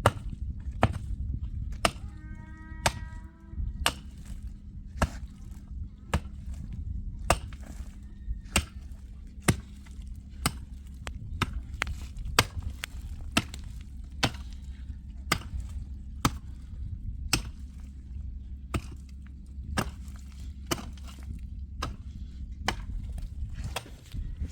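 Repeated sharp chopping strikes, about one a second at a steady pace, over a low steady rumble.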